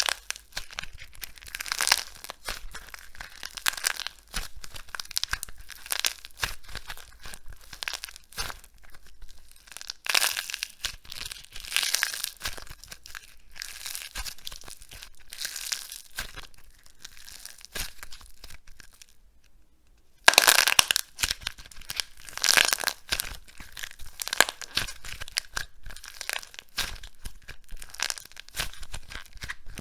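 Dry soap being crushed, a dense crackling and crunching that comes in spells, with louder bursts at the very start, about ten seconds in and again about twenty seconds in.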